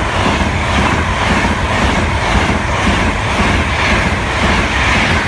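A train running on its rails: a steady, even rumbling noise.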